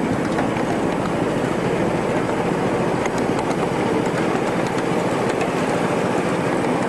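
Steady rumbling noise of a ride-on miniature railway train running, with a few faint ticks.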